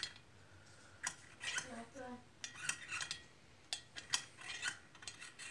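A light switch clicked over and over, a dozen or so sharp clicks at uneven intervals, while the light stays dark because the power is out.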